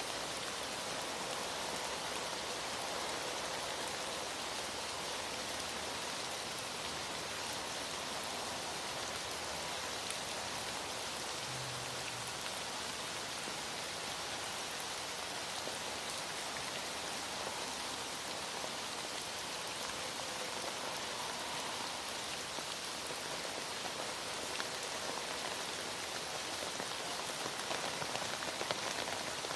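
Heavy rain falling and pattering on surfaces, a steady even hiss.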